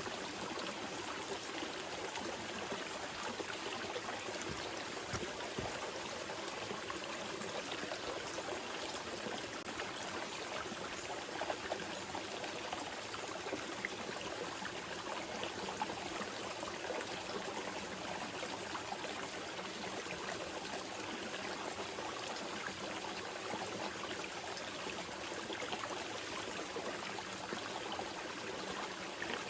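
Small river flowing steadily over rocks, a continuous gentle rush with small splashes and trickles.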